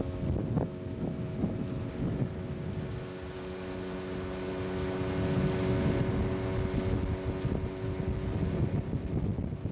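Boat's outboard motor running at a steady speed, with wind buffeting the microphone.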